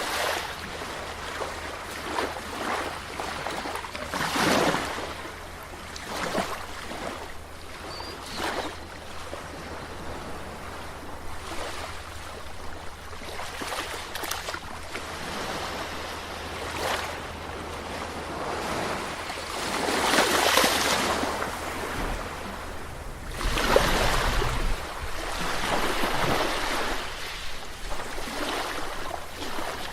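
Sea waves washing in and breaking in irregular surges, the largest about 20 and 24 seconds in, over a low rumble of wind on the microphone.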